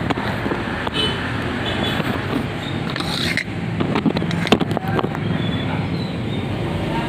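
A steady low rumble with scattered clicks and knocks, and a brief swish about three seconds in.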